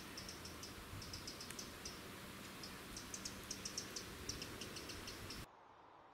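Woodland ambience: a steady hiss with small birds chirping in quick, irregular runs of short high notes. The background drops away abruptly about five and a half seconds in.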